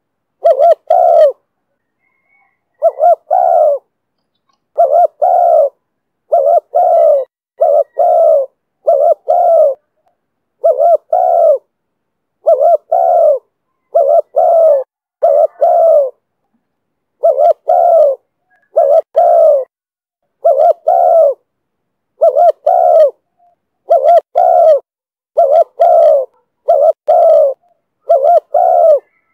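Spotted dove cooing in the 'thổ thúc' style: low, short coos, mostly in pairs, repeated every second or two with brief pauses.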